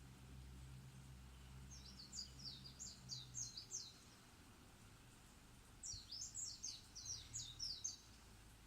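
A songbird singing two quick phrases of high, chirpy, sweeping notes, one near the start and one near the end, with a pause between them.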